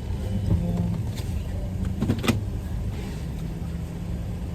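Car engine idling, heard from inside the cabin as a steady low hum, with a few sharp clicks about a second in and again a little after two seconds.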